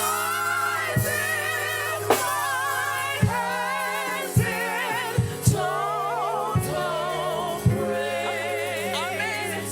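Gospel singers with a live band: sustained, vibrato-laden vocal lines over held bass notes, with a drum hit about once a second.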